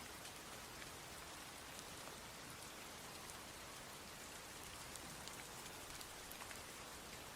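Steady rain falling, an even hiss with many scattered sharp ticks of individual drops striking close by.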